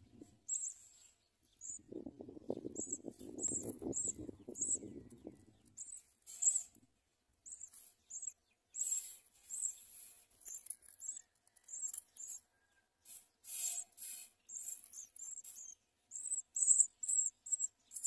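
Small songbird chirping: many short, high chirps, coming in quicker runs near the end. Between about two and six seconds in there is also a low rumbling noise.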